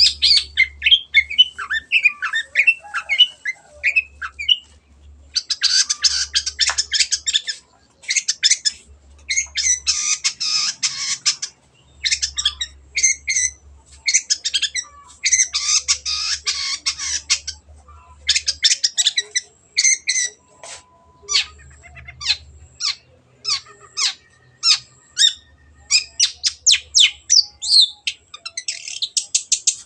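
Long-tailed shrike (cendet) in full song: harsh, rapid, scratchy phrases in bursts of a second or two, giving way to a run of short, sharp separate calls in the second half.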